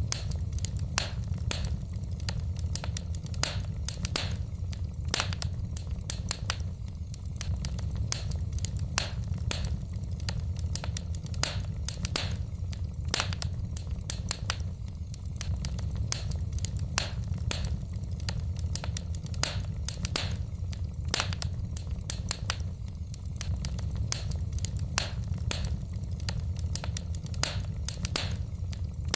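Wood fire burning in a fireplace, the logs crackling with frequent sharp, irregular pops over a steady low rumble of the flames.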